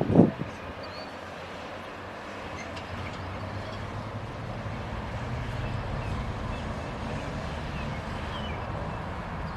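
A passing freight train: two heavy wheel clunks right at the start, then a steady low rumble, with faint bird chirps now and then.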